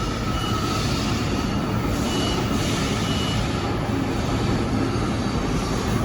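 Train running in a station with a steady rumble, with three short high beeps in the first half.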